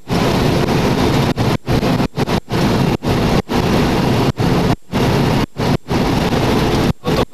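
Loud, steady rumbling rush of air noise, broken by about a dozen brief silent dropouts.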